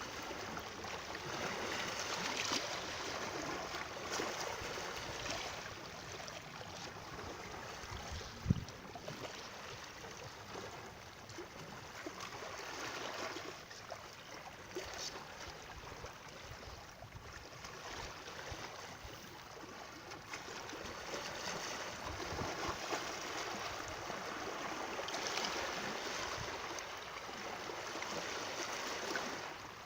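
Running water, a steady rushing noise like a flowing stream, with one brief knock about eight seconds in.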